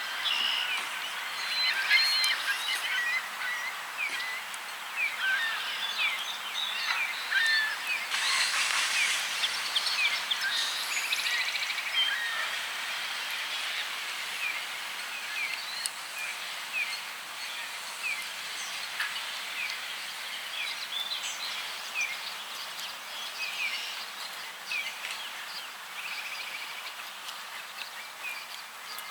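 Birds calling, many short high chirps overlapping throughout, with a louder, denser stretch about eight to ten seconds in.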